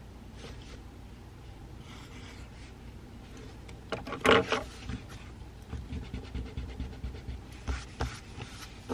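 Pencil writing and rubbing on paper at a desk, with scattered light scratches and small clicks over a steady low room hum. One louder brief rustle or knock comes about four seconds in.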